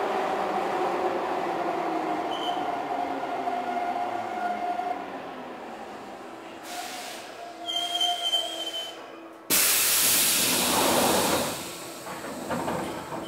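Keihan 2600 series commuter train heard from inside the car as it slows: the running noise and a falling motor tone fade away, and a brief high-pitched brake squeal comes about eight seconds in. Then comes a sudden loud rush of compressed-air hiss lasting about two seconds, as the train comes to a halt.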